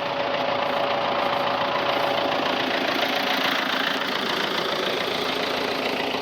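Tractor engine running steadily while pulling a Krone KR 130 round baler through the hay. It is a continuous drone with a faint steady whine that gives way to a lower one a couple of seconds in.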